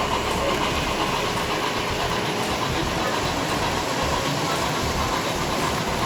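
Model electric trains running on a show layout, a steady rumbling whir of motors and wheels on track.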